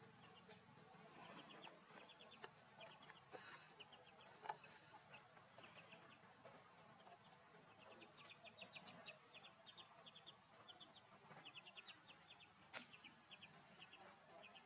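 Faint outdoor ambience with a bird chirping in short, quick runs of high notes, and a single sharp click about four and a half seconds in.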